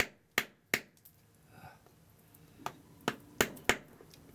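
Sharp, clicking strikes of a tool hitting a geode to crack it open: three quick blows in the first second, then four more about two and a half seconds later.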